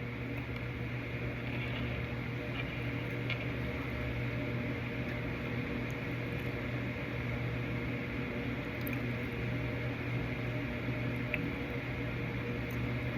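Faint chewing of a Nerds gummy candy with a crunchy coating and a soft, chewy inside, with a few small crunches. A steady low hum runs underneath.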